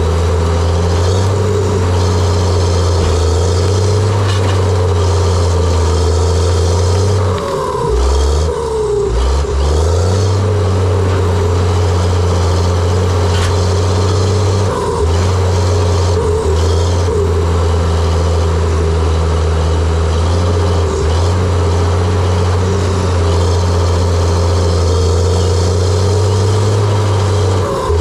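John Deere 700J-II crawler dozer's diesel engine running steadily with a constant mechanical whine above it. The engine note dips and recovers about eight seconds in, and a few short squeals come and go.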